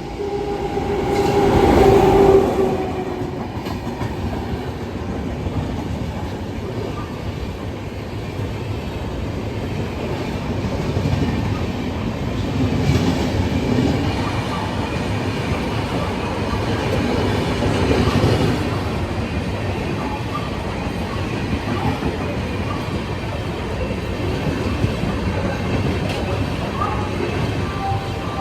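Electric train running on the rails with a steady rumble and wheels clattering over rail joints. A train horn sounds in the first couple of seconds.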